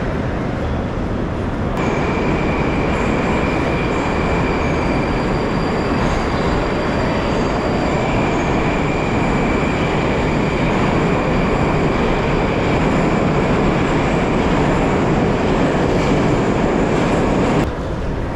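Metro train running between stations, heard inside the carriage: a loud, steady rumble of wheels on rails with a high whine over it. The noise drops off suddenly near the end.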